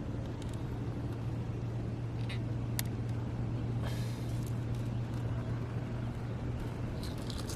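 A steady low motor hum, with a few faint clicks and a brief hiss about four seconds in.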